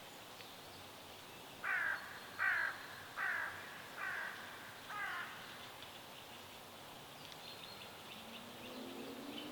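A bird gives five harsh calls in a row, a little under a second apart, the later ones fainter, over a steady faint background hiss with small high chirps from other birds.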